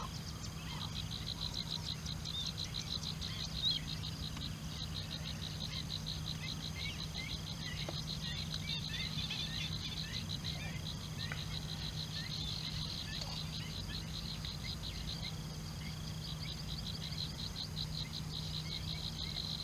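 Steady outdoor chorus of small calling animals: a rapid, even pulsing trill, high in pitch, over a low steady hum, with scattered short chirps.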